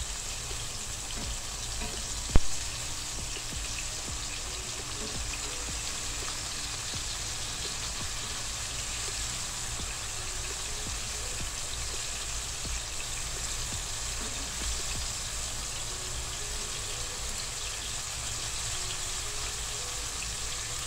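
Tomato slices sizzling in hot oil in a nonstick frying pan, a steady hiss, with one sharp knock about two and a half seconds in.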